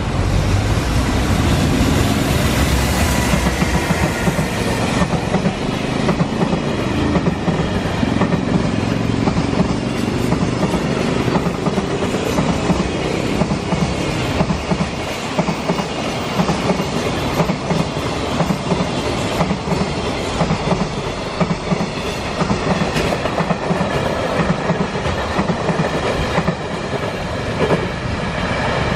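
JR Freight EF210 electric locomotive and its long train of container wagons passing close by, a loud steady rumble with the wheels clattering over the rail joints, loudest in the first few seconds.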